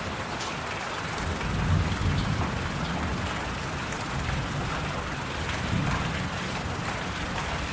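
Steady rain-like noise, with a low rumble that swells in about a second in and keeps going underneath.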